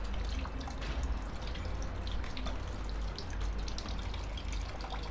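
Water trickling and dripping from a leak in a demonstration rig, a steady run of water with many small irregular splashing drips.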